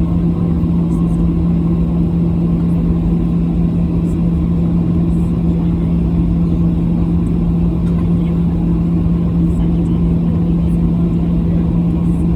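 Steady jet airliner cabin noise: engine and airflow rumble with a constant low hum running through it.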